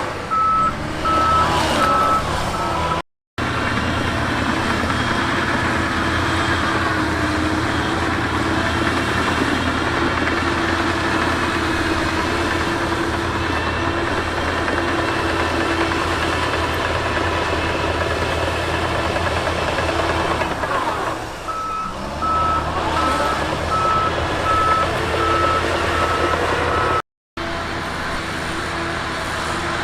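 Heavy diesel earthmoving equipment running steadily, with a reverse alarm beeping about twice a second near the start and again from about 22 to 27 seconds in. The sound drops out briefly twice at edit cuts.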